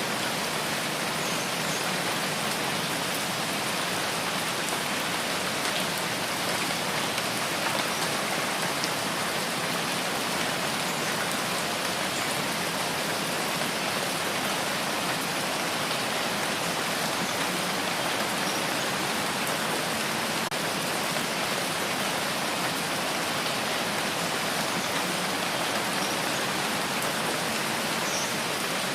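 Steady rain falling, an even hiss with fine drop patter and no change in strength.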